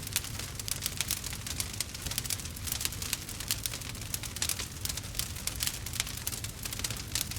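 Wood fire crackling and popping: dense, irregular sharp crackles over a low steady rumble.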